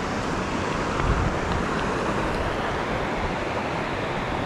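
Steady rush of water from a small waterfall, an even hiss.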